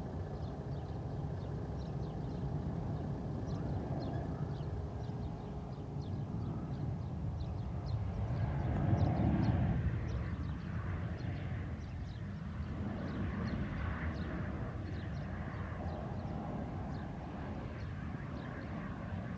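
Jet engines of a Ryanair Boeing 737 making a steady low rumble that swells to its loudest about nine seconds in and then eases off. Faint, rapid high ticks repeat throughout.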